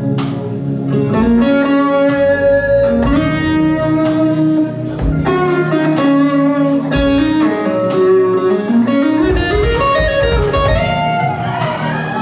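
Electric guitar playing a solo feature with the band: held, singing notes, with several slides and bends from one pitch to the next.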